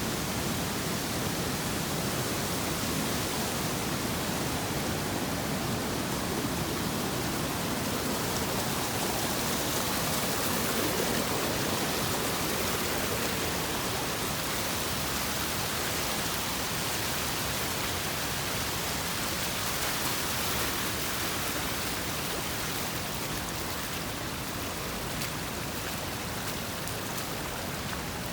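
Floodwater rushing down a road that has turned into a stream, a steady hiss of running water that swells slightly partway through.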